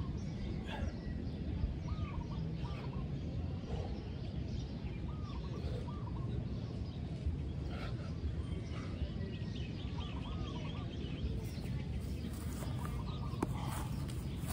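Birds calling, short arching calls repeated every few seconds, over a steady low background rumble.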